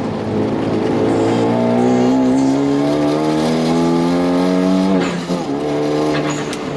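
Turbocharged 2.0-litre four-cylinder engine of a race-built Hyundai Genesis Coupe pulling hard at full throttle, its pitch rising steadily for about four seconds. About five seconds in, an upshift drops the pitch suddenly and the engine runs on at a steadier, lower note.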